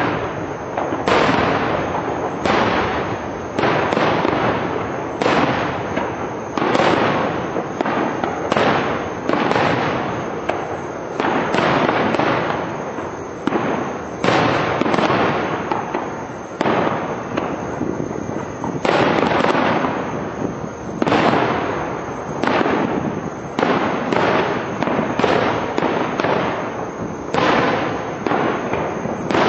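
Aerial fireworks shells bursting in quick succession, a boom every second or two, each ringing out and fading before the next.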